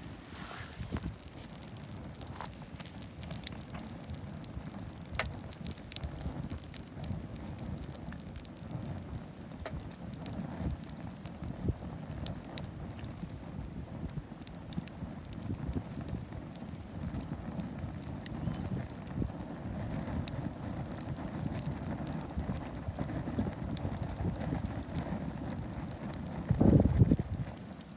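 Wood fire crackling steadily, with many small sharp pops and snaps scattered through it. A brief, louder low rumble comes near the end.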